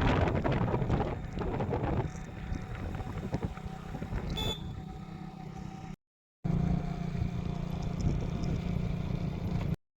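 Motor vehicle engine running steadily, with a rattling noise over it that is loudest in the first couple of seconds. The sound cuts out for a moment about six seconds in and stops abruptly just before the end.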